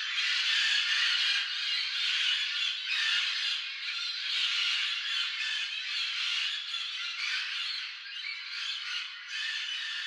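Dense chorus of bird calls with no music, slowly getting quieter.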